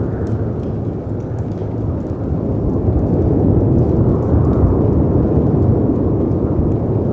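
Layered storm ambience: a dense low rumble of wind and surf that swells about halfway through and eases again, with faint sparse crackles of a wood fire over it.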